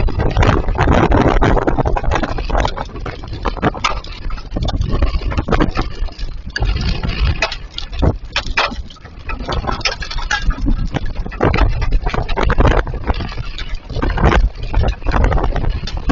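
Small hail and rain coming down hard: a dense, loud rush with many sharp ticks of hailstones striking. It eases briefly about halfway through, then builds again.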